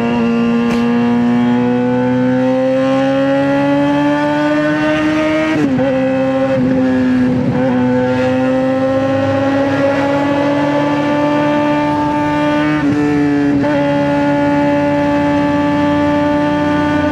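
2009 Suzuki GSX-R600 inline-four running through a straight-pipe exhaust at high revs. The pitch climbs slowly, drops briefly about five and a half seconds in, rises again and then holds nearly steady, with a couple of short dips near the end.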